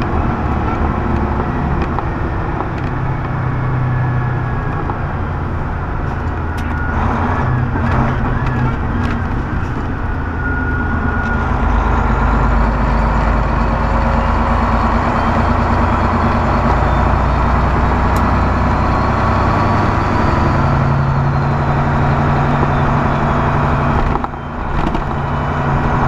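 Semi truck's diesel engine running and road noise heard inside the cab while driving, a steady low drone whose low note shifts a few times, with a brief drop near the end.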